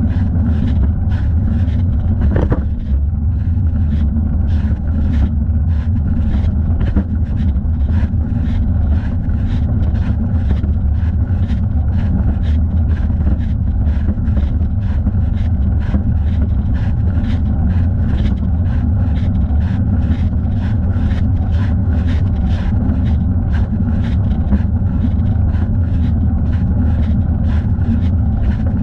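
Steady low wind rumble on the microphone of a thigh-mounted camera while cycling, with a regular light ticking about two to three times a second that keeps time with the leg's movement.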